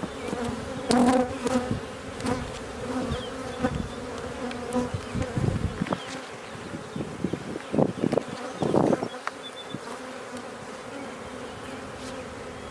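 A colony of Carniolan honey bees buzzing steadily around an open hive, a continuous hum, with a few knocks and scrapes of hive parts being handled.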